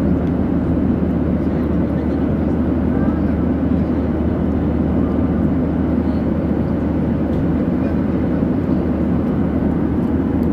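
Steady engine and airflow noise of an airliner heard inside the passenger cabin, an even low drone that does not change.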